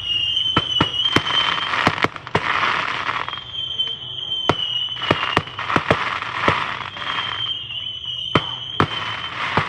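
Fireworks going off: a quick run of sharp bangs and pops with crackling hiss between them, and a high wavering whistle that rises three times.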